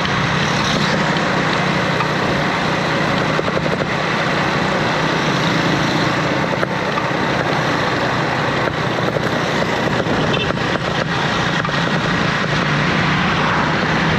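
A bus or truck engine running steadily, heard as a continuous drone under a noisy hiss.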